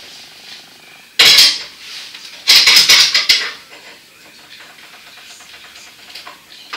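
Clattering of hard objects: a loud burst of clatter about a second in, then a quick run of sharp knocks and clinks.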